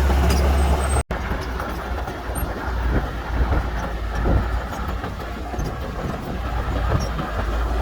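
Heavy diesel earthmoving machinery running with a steady low rumble. The sound drops out for an instant about a second in, then carries on a little quieter.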